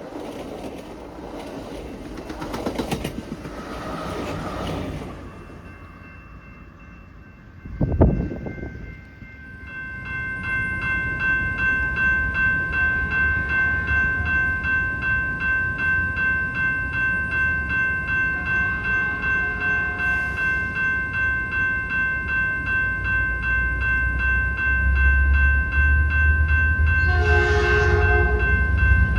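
Train rolling by at first, then a sharp thump. A railroad crossing bell then rings in a steady rhythm while an approaching train's rumble grows louder, and the locomotive horn sounds near the end.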